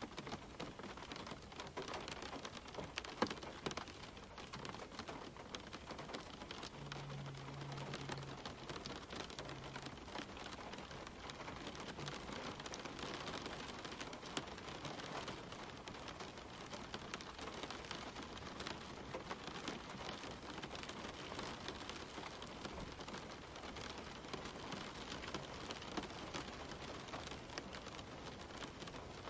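Gentle rain falling steadily on leaves and the ground, with individual close drops pattering irregularly. A faint low hum sounds briefly about seven seconds in.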